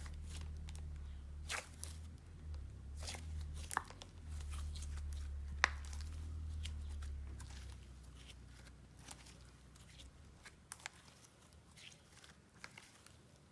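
Jelly slime being squished and pulled by hand, giving faint, scattered sticky clicks and crackles. A low hum sits underneath and fades out about eight seconds in.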